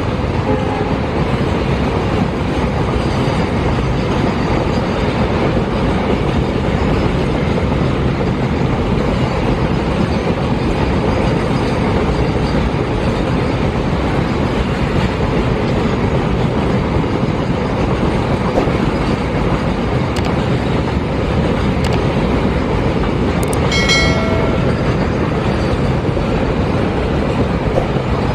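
Double-stack container freight train's wagons passing, a steady loud din of wheels running on the rails, with a brief high-pitched tone about 24 seconds in.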